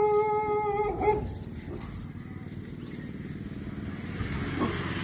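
Dog giving one long, steady-pitched howl lasting about a second and a half, then a short yelp near the end. A motor vehicle's engine hums low underneath, growing toward the end.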